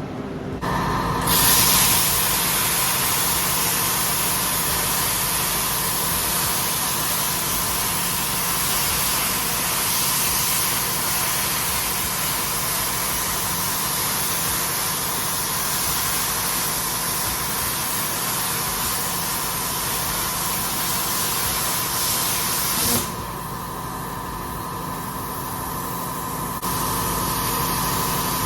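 Handheld plasma cutter cutting through metal plate: a loud, steady hiss that starts about a second in and cuts off suddenly about 23 seconds in. A quieter hiss follows and grows louder again near the end.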